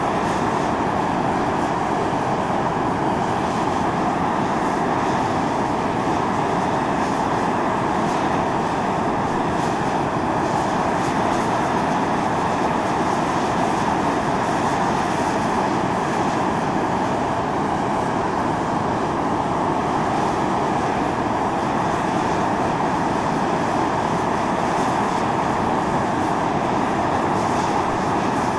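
Volcanic fumarole venting: a steady, loud hiss and roar of steam and gas blasting from vents on Mt. Io (Atosanupuri), a volcano.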